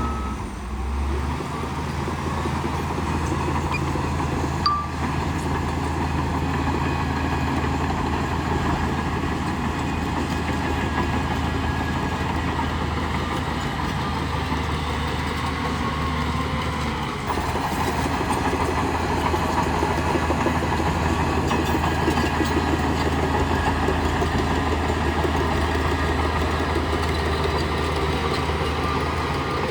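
Crawler bulldozer's diesel engine running steadily under load, with clanking from its steel tracks. There is a single sharp knock about five seconds in.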